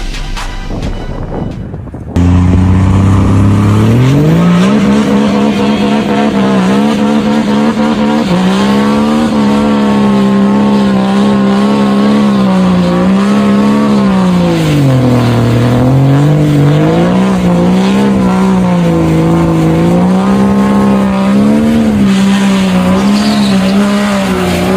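A truck engine is suddenly loud about two seconds in. Its revs climb and are held high with small rises and falls, dropping and picking back up about halfway through.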